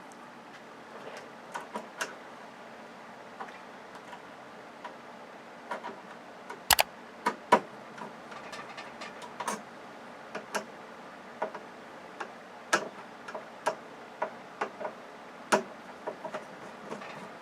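Irregular sharp clicks and taps from hand work taking apart an LCD TV, with the loudest few a little before the middle.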